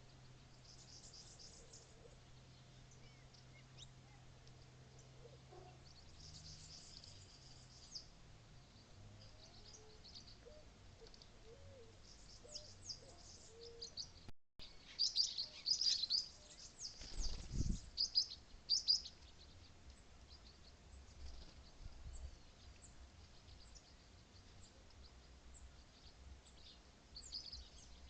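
Small birds chirping: many quick, high-pitched chirps and short trills, thickest and loudest in a burst around the middle. One dull low thump comes during that burst.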